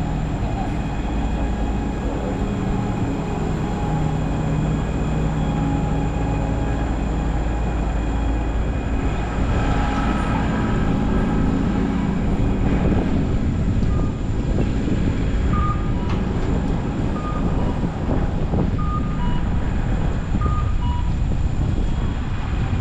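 Steady low rumble of a large vehicle's engine in street traffic, with wind noise. From about fourteen seconds in, a run of short, high electronic beeps repeats every half second or so.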